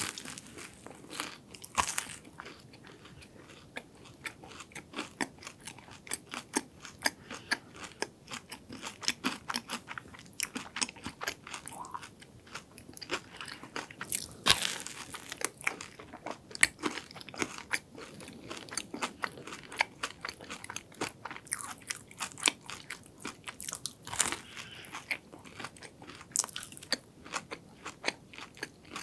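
Close-miked eating of a chocolate-glazed croffle, a croissant pressed in a waffle iron: a crunchy bite right at the start, then steady crisp crunching and chewing, with a few louder crunching bites scattered through.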